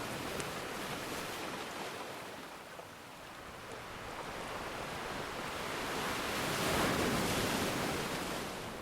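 Ocean surf: a wave washes in, swelling to its loudest about seven seconds in and then falling away, with a few faint crackles from a wood fire.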